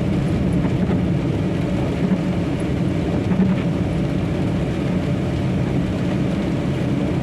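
Semi-trailer truck's engine and road noise heard inside the cab while driving, a steady low hum.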